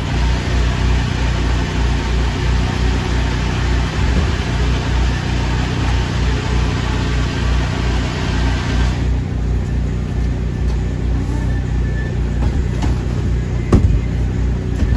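An engine running steadily with a low rumble. A loud hiss lies over it and stops abruptly about nine seconds in. A single sharp knock comes near the end.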